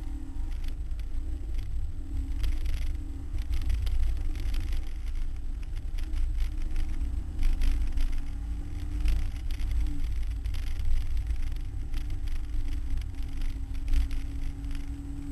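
Ford Cortina's engine running hard under racing load, heard from inside the cabin, its pitch rising and falling with the throttle and dropping about ten seconds in, over a heavy low rumble with scattered knocks.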